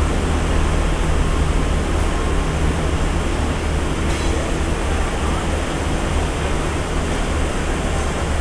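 Steady rushing noise over a low, even engine hum, as of a diesel locomotive running nearby.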